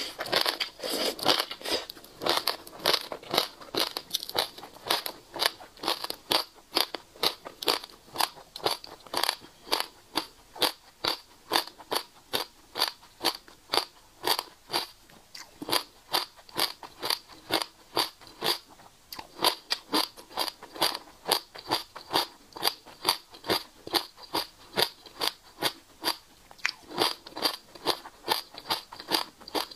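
Passion fruit seeds crunching between the teeth in steady chewing, about two to three crunches a second, picked up close on a clip-on microphone. The sound is denser for the first two seconds while seed pulp is taken from the fingers.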